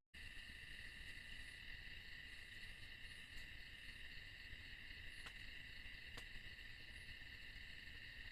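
Steady chorus of forest insects, several high-pitched trills held without a break, over a faint low rumble, with two faint ticks in the middle.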